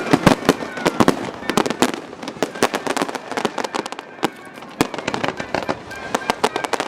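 Fireworks going off: a dense run of sharp bangs and crackles in quick succession, heaviest in the first two seconds, thinning out in the middle and building again near the end.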